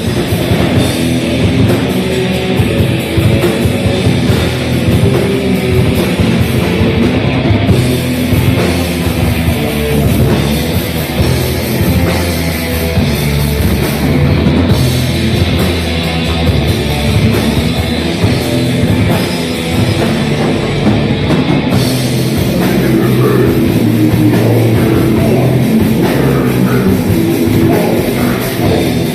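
Death metal band playing, with distorted guitars and a drum kit.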